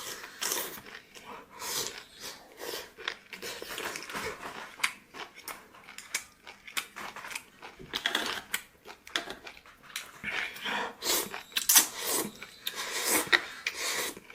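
A person eating close to the microphone: irregular chewing with wet mouth clicks and crisp crackles, growing busier and louder a little past the middle.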